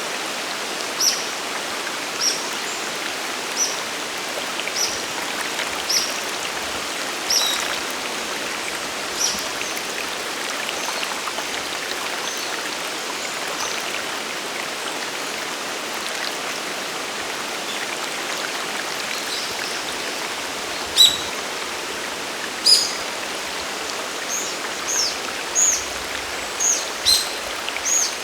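Steady rush of a mountain waterfall and stream. Over it a bird gives short high chirps about once a second at first, falls silent, then calls again, louder and more varied, near the end.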